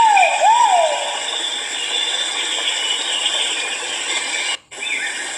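Great argus pheasant (kuau) giving two swooping call notes in the first second, over a steady high background hiss. The sound drops out for a moment near the end.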